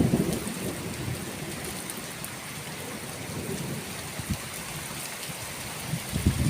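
Steady rain with low rolling thunder. The rumble is strong at the start, dies down after about a second, and builds again near the end.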